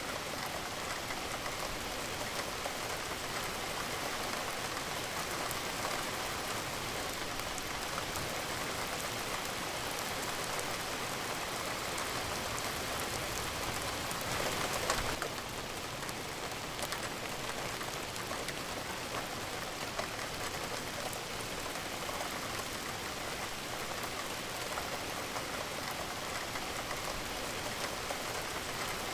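Steady rain falling, an even dense hiss of drops, with a brief louder surge about halfway through.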